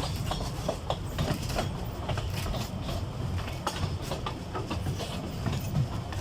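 Narrow-gauge forest railway train running, with a steady low rumble and irregular clicking and knocking of wheels over the rail joints.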